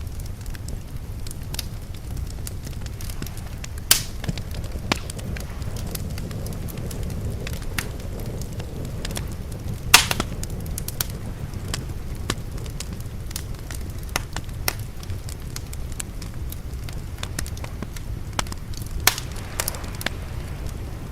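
Fire crackling and popping, with sharp pops scattered throughout, the loudest about four seconds and ten seconds in, over a steady low rumble.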